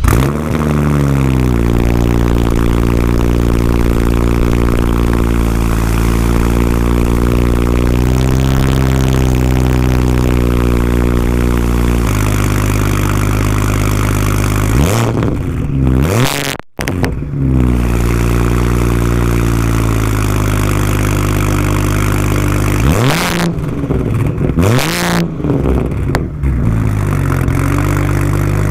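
Single-turbo BMW N54 straight-six starting and running through a 3-inch single-exit exhaust with only a resonator and no muffler, very loud. It holds a high idle, drops to a lower idle about 12 seconds in, and is revved in short blips once around 15 seconds and several times near the end.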